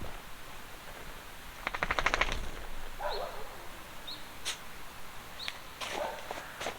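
A Jindo-mix dog whining in short, high, rising squeaks. A quick rattling run of clicks comes about two seconds in.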